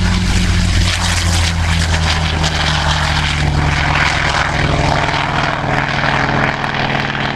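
Piston-engined propeller aircraft running loud and steady, a deep engine drone with little change in pitch.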